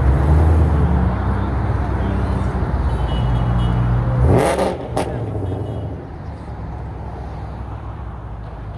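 Car engine running and revving, its pitch shifting up and down. About four seconds in comes a short loud rising burst and a sharp crack, after which the engine settles lower.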